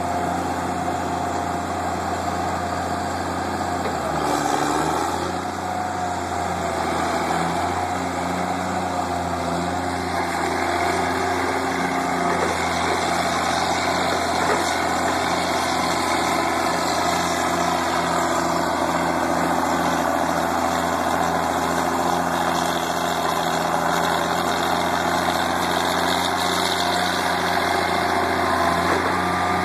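Tractor engine running steadily while compacting dirt, its note holding even with a brief shift about four seconds in.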